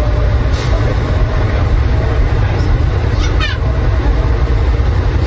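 Airport underground people-mover train running: a steady low rumble with a faint motor tone and a brief rising high sound a little over three seconds in.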